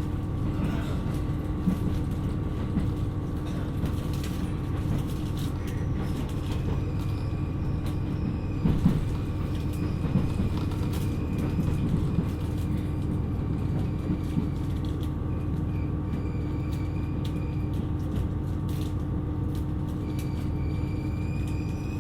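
KiHa 127 series diesel railcar running along the line: a steady low rumble of engine and wheels with a constant droning tone, and scattered clicks and knocks from the track.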